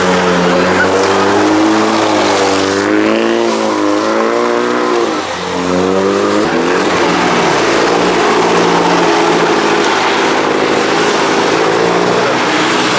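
Car engine revving hard, its pitch wavering up and down, with a brief dip about five seconds in before the revs are held more steadily. A hiss of spinning tyres runs under it, typical of a car shredding its tyres in a burnout.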